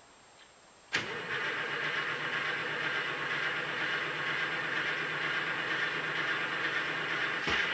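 Diesel truck engine running steadily, cutting in suddenly about a second in after a moment of near silence.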